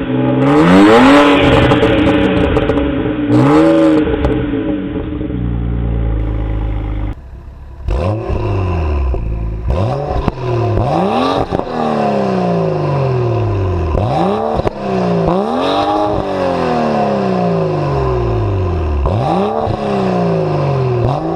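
BMW 135i turbocharged straight-six revved through its exhaust, its pitch rising and falling. After a cut about seven seconds in, another 135i is blipped again and again, each rev climbing quickly and dropping away slowly.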